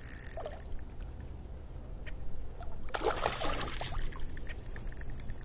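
Water splashing as a big hooked fish thrashes at the surface beside a kayak. One loud splash comes about three seconds in and lasts about a second, over a low steady rumble and faint scattered ticks.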